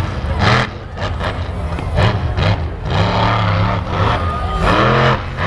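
Monster truck engine running loudly, surging several times.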